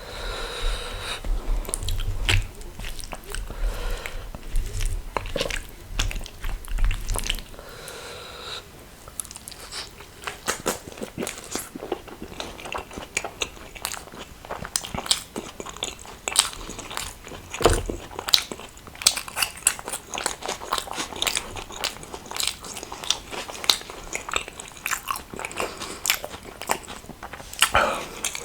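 Close-miked mukbang eating: a person chewing and biting into dum aloo and rumali roti, with many sharp crunchy clicks of mouth and food.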